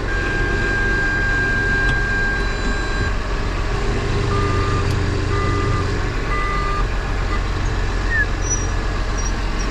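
Tractor engine running steadily, heard from inside the cab, with a steady electronic warning tone for about three seconds, then three short beeps about a second apart.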